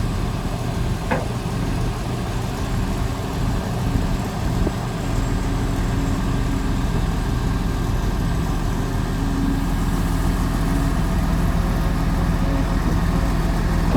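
Excavator's diesel engine running steadily with a low, even hum, with a brief click about a second in.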